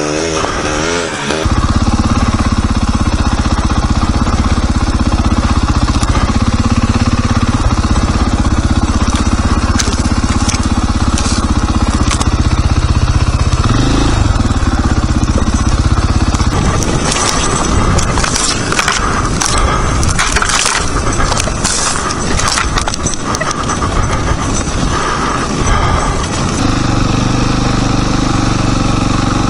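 Dirt bike engine running steadily while riding, heard close up from the bike. Over the middle of the stretch, a run of sharp knocks and rattles comes through, then the steady engine note returns near the end.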